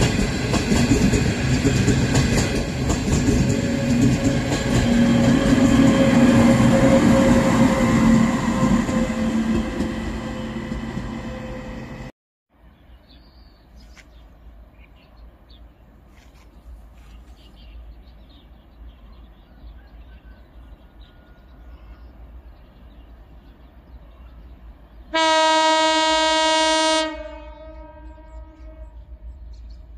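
Passenger coaches running past on the rails, a loud rumble with clatter that fades away. After a sudden cut to quiet, an approaching HXD1 electric locomotive sounds its horn once, a steady blast of about two seconds near the end.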